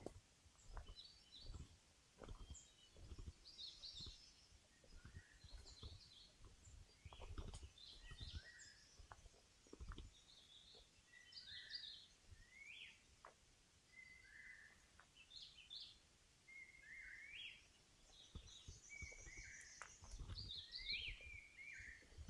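Several forest birds calling with short chirps and rising whistled notes, over the low thuds of footsteps along the trail.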